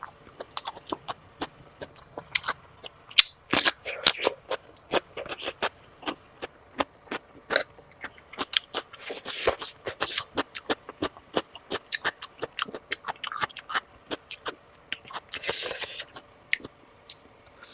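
Close-miked chewing of sausage: a dense, irregular run of wet mouth clicks and smacks, with a few longer noisy stretches of chewing.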